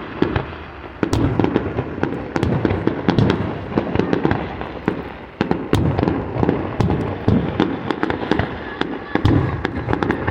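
Fireworks display: a continuous irregular volley of shell bursts, deep booms mixed with sharp crackling reports, many overlapping each second.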